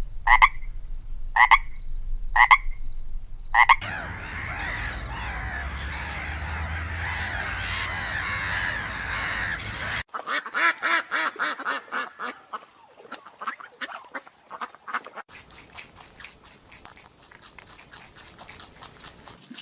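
Animal calls in several edited clips: about five short separate calls, then a dense chorus of many overlapping croaking calls, then rapid pulsed calls after an abrupt cut.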